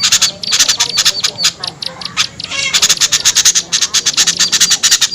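Recorded alarm and scolding calls of small birds, played as a bird lure: a dense, harsh chatter of many short, sharp notes, several a second, thinning out briefly around two seconds in before picking up again.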